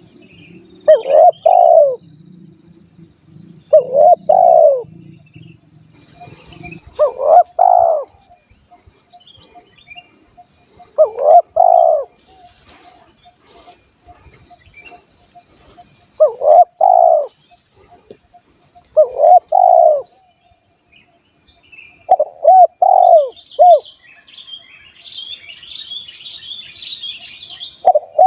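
Spotted dove (tekukur) cooing, used as a lure call: a short phrase of two or three coos repeated every few seconds. A steady high drone runs underneath, and small birds twitter near the end.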